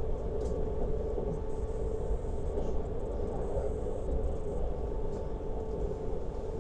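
Lastochka (Siemens Desiro RUS) electric train running at speed, heard from on board: a steady rumble of wheels on rails with a constant hum.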